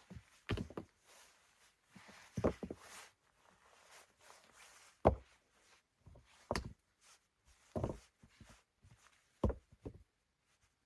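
A series of dull knocks, six of them spaced irregularly over about ten seconds, some doubled.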